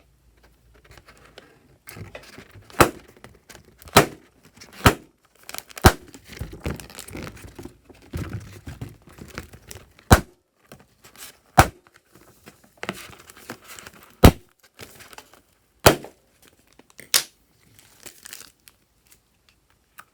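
Glossy slime being pressed and stretched by hand, giving about nine sharp pops of trapped air at uneven intervals, with softer crackling and squishing between. The sound starts about two seconds in and trails off near the end.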